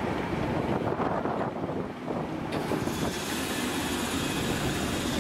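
Class 318 electric multiple unit running past along the platform, wheels rumbling on the rails, with strong wind buffeting the microphone. A higher hiss joins about two and a half seconds in.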